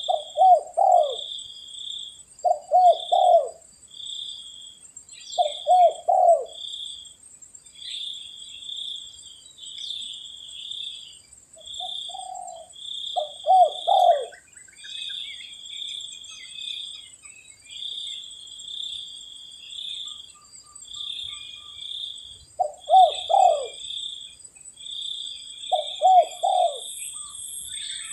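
Spotted dove cooing: six phrases of its three-note coo, each about a second long, with longer gaps in the middle. Behind it run a row of short high chirps about once a second and a steady high insect buzz.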